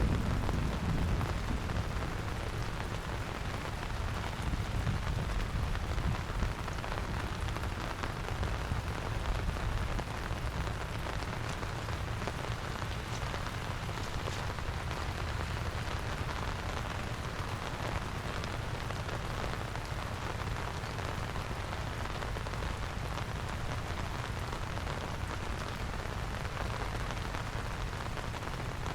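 Steady rain falling, an even hiss of drops on the surroundings.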